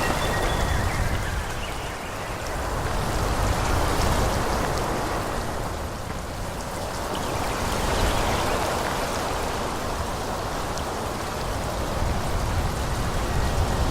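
Wind blowing through forest trees: a steady rush of leaves with a low rumble underneath, swelling and easing in slow gusts.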